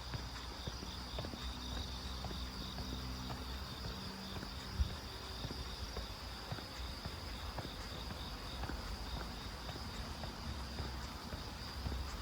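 A steady, shrill chorus of insects, one voice pulsing rapidly, over the scattered light footsteps of a walker on a road, with one louder knock about five seconds in.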